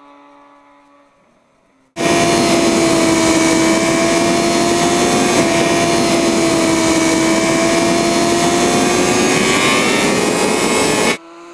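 Honda CBR600RR inline-four engine through a Two Brothers Black Series exhaust. Over the first two seconds it fades away. Then a loud stretch of the engine held at steady high revs, with heavy wind rush, cuts in suddenly and cuts off just as suddenly near the end.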